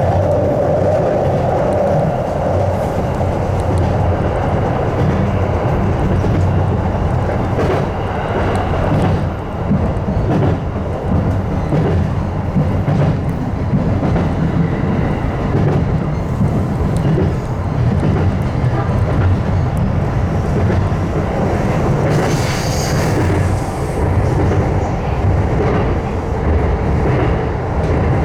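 Electric commuter train running on the rails, a steady low rumble with wheels clicking over rail joints. A brief high hiss comes about three-quarters of the way through.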